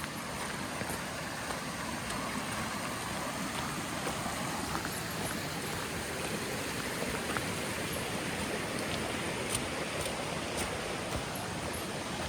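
Steady rushing of a creek and waterfall, with a few faint ticks over it.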